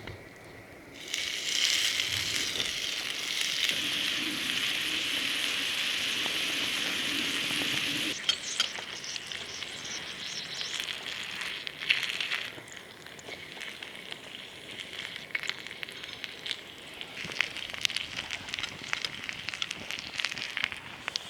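Hamburger steak sizzling in a hot pan. A loud, steady sizzle starts suddenly about a second in, as the patty meets the hot surface. After about eight seconds it settles into a quieter sizzle with many small pops and crackles.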